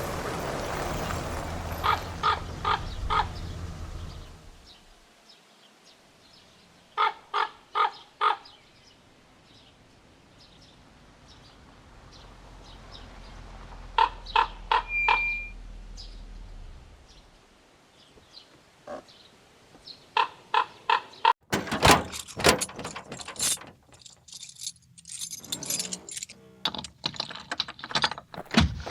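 A sequence of edited sound effects: three sets of four quick, evenly spaced knocks, then a fast, irregular clatter of clicks and taps in the last several seconds.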